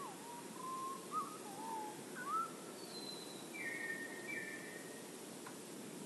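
Songbirds calling: a few low whistled notes that slide up and down over the first two seconds or so, then a thin high note and two short buzzy notes. A steady hiss lies underneath.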